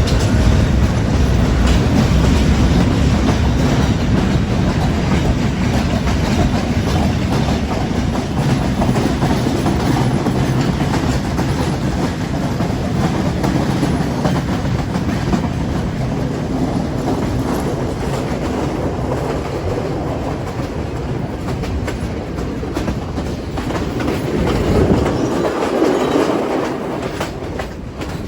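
A train running along the track, its wheels clattering over the rail joints with a steady heavy rumble. Near the end the low rumble drops away.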